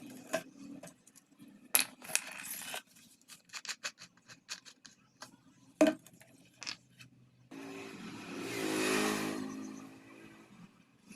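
A run of sharp clicks, taps and scrapes, as of something being handled. Later comes a whirring buzz with a hiss that swells and fades over about two seconds.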